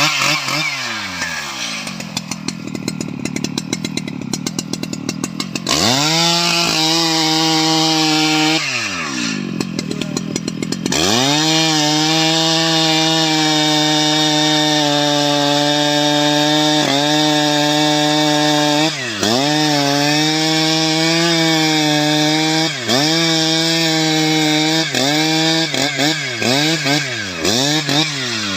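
STIHL MS 881 two-stroke chainsaw running low for the first few seconds, then revved briefly and opened up to full throttle at about eleven seconds. In the last ten seconds its pitch dips again and again as the chain bites into the teak wood and the engine bogs and recovers.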